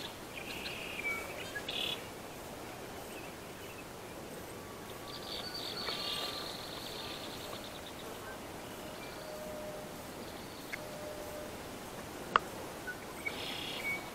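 Birds chirping and trilling on and off over a steady faint outdoor hiss, with one sharp click about twelve seconds in.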